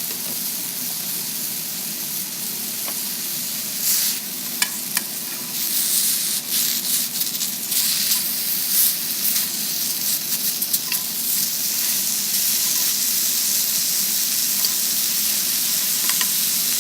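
Shake-and-bake chicken sizzling as it cooks: a steady frying hiss, with scattered pops and crackles from about four seconds in until about eleven seconds in.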